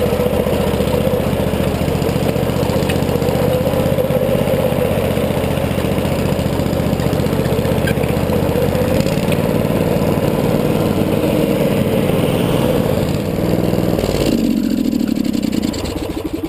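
Small lawn tractor engine running steadily under way, with a fast even firing beat. About two seconds before the end the sound changes to a lower-pitched running note.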